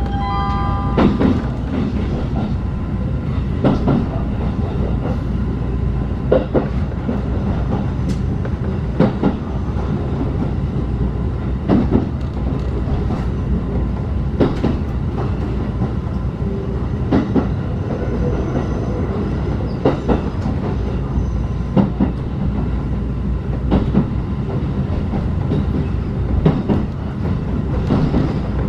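Inside a locomotive-hauled passenger coach under way: a steady low rumble of wheels on track, with the wheels clacking over rail joints about every two and a half seconds.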